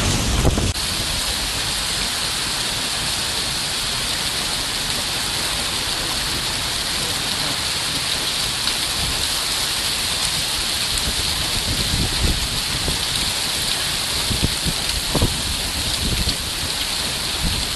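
Heavy rain pouring steadily in a thunderstorm, a dense even hiss. A low rumble in the first second cuts off abruptly, and faint low rumbles of thunder come and go in the second half.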